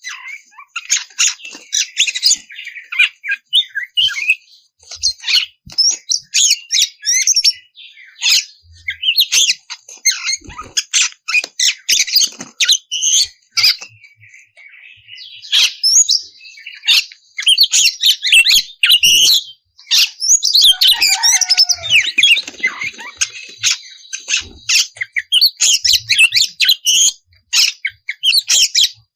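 Oriental magpie-robin (kacer) in full song: a long run of quick, varied whistles and harsh scratchy notes in bursts with brief pauses, with a quieter stretch about halfway through.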